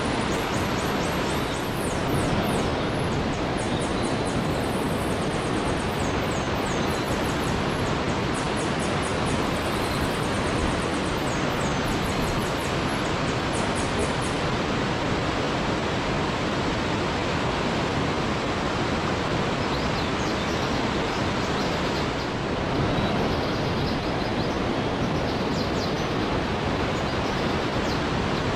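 Steady rushing of a waterfall, with rapid series of high-pitched chirps over it in the first half and again near the end.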